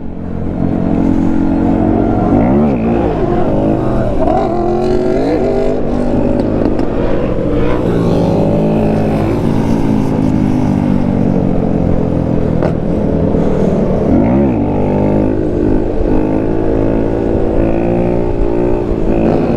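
Motorcycle engines running under way, with several rises and falls in pitch as they rev and shift gears; one sharp rise and fall comes about two and a half seconds in, and another near fourteen seconds.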